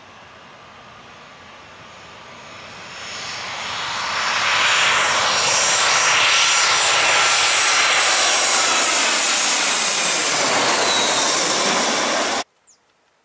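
An airliner passing low overhead: its engine noise swells over a couple of seconds into a loud, steady roar with faint whining tones that slide down in pitch, then cuts off abruptly near the end.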